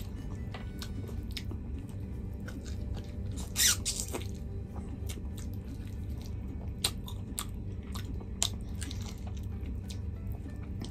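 Close-miked chewing and wet mouth clicks of chicken and rice eaten by hand, with a louder mouth sound about four seconds in.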